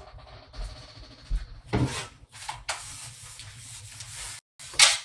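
Rubbing and rustling handling noises, with a steady hiss for a second or two just past the middle and short sharp rustles.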